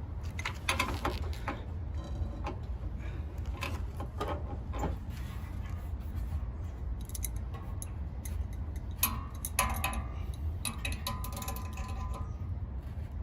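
Hand tool working on a fastener underneath a condenser fan motor: irregular metallic clicks and scrapes in clusters, some ringing briefly, over a steady low rumble.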